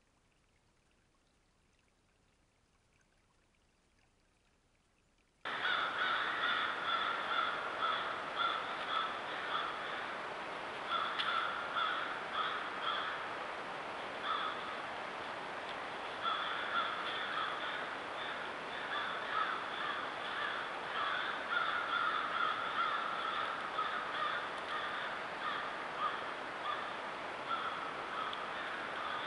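Near silence, then about five seconds in a dense chorus of harsh, rapidly repeated bird calls starts suddenly and keeps going without a break.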